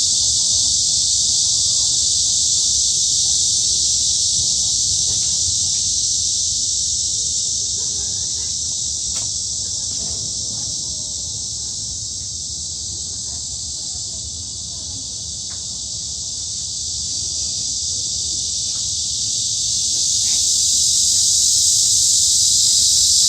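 Cicadas singing in chorus: a dense, continuous high buzz that eases off somewhat midway and swells again near the end.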